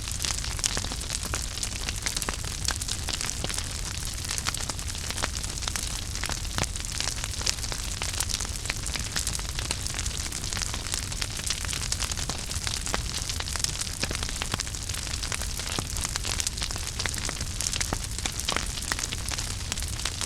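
Wood fire burning in a fireplace: a steady hiss and low rumble of the flames with frequent small crackles and pops scattered irregularly throughout.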